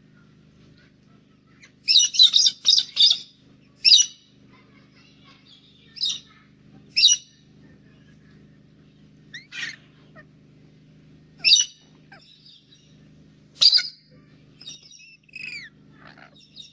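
Birds calling in short, sharp, high chirps: a quick run of four about two seconds in, then single calls every second or two, with a few falling notes near the end, over a faint steady low hum.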